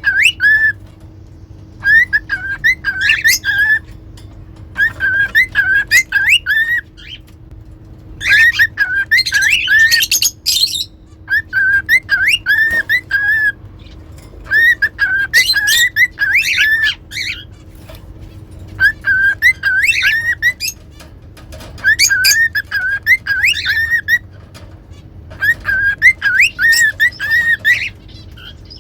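Cockatiel whistling a short, repeated tune of gliding notes, phrase after phrase with brief pauses between them, mixed with a few higher chirps.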